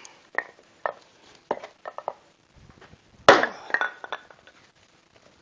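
Axe splitting a plum-wood log: a few light wooden knocks and clinks, then about three seconds in one loud axe blow as the log splits, with a few smaller clatters of wood after it.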